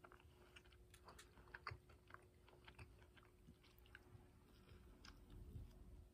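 Faint chewing and biting on a fried chicken tender, heard as scattered soft, wet clicks of the mouth at work.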